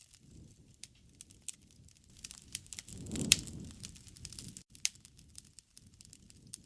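Wood bonfire crackling: irregular snaps and pops over a low rush of flame. The rush swells about three seconds in, with one loud pop.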